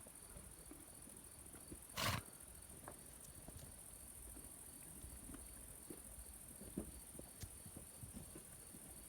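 Crickets chirping steadily, with one short loud noise about two seconds in and a few faint knocks later on.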